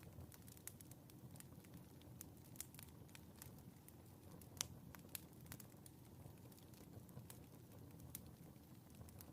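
Faint wood fire crackling in a fireplace: irregular sharp pops over a low steady rumble, one louder pop near the middle.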